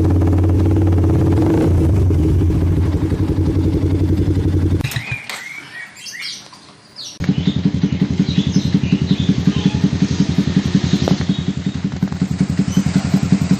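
Yamaha MX King 150 single-cylinder four-stroke engine idling through an aftermarket exhaust with an even, throbbing pulse. About five seconds in the engine sound stops and, for about two seconds, only birds chirping are heard, before an engine idles again with a strong, regular beat, likely a different exhaust being demonstrated.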